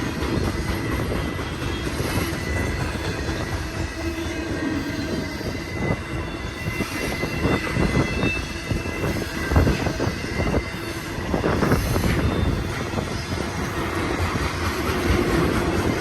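BNSF intermodal freight train rolling past as it accelerates: a steady rumble of cars and wheels on the rails with a low hum and a thin high wheel squeal, and bunches of sharp clicks over the rail joints between about six and twelve seconds in.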